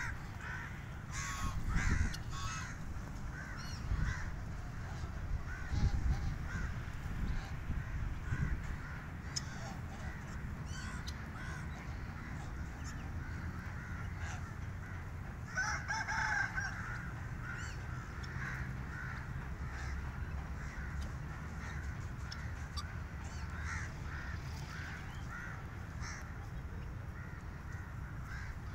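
A flock of birds calling over and over in short, overlapping calls, busiest about halfway through, over a low rumble with a few dull thumps in the first few seconds.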